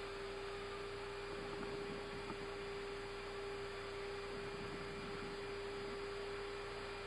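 Airbus A320 cockpit ambience during taxi: a steady electrical hum at one constant mid-low pitch over an even background hiss.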